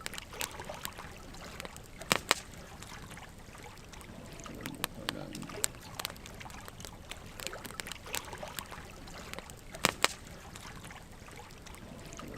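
Wood fire burning, with irregular sharp crackles and pops from the logs over a steady hiss. The loudest pops come in quick pairs, about two seconds in and again near ten seconds.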